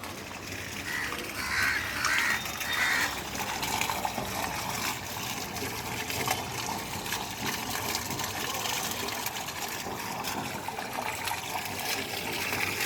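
Rainwater running steadily into a clogged rain drain as it is being cleared, briefly louder about two seconds in.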